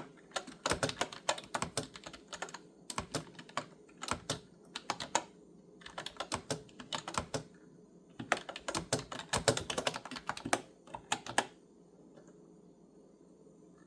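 Clicky computer keyboard being typed on in quick runs of keystrokes with short pauses between them. The typing stops near the end, leaving faint room tone.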